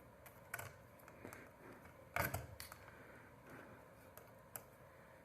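A few scattered clicks and small knocks of hands unscrewing and handling the metal and plastic parts of a ceiling light fixture, the loudest about two seconds in.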